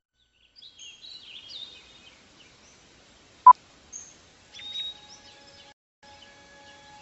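Birds chirping in quick high glides, with a single sharp click about halfway through that is the loudest sound. Steady held tones at several pitches come in after about four and a half seconds, breaking off briefly near the end.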